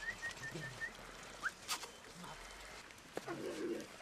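Animals calling: a quick run of five short high chirps, then a single rising note, and a short lower call near the end, with a few sharp knocks in between.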